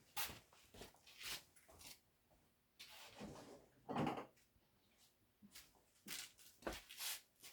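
Irregular clunks, clicks and scrapes of objects being picked up and moved about while searching for something, the loudest clunk about four seconds in.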